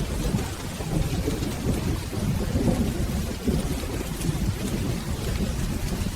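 Steady rain with a continuous low rumble of rolling thunder, the rumble swelling and easing slightly without a sharp crack.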